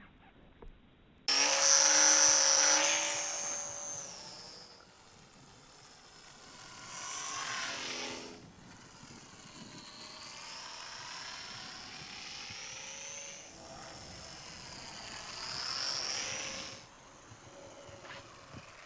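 Electric motor and propeller of a mini RC SF260 warbird whining as it flies, cutting in abruptly and loud about a second in. The whine then fades and swells again several times, its pitch falling and rising as the plane passes.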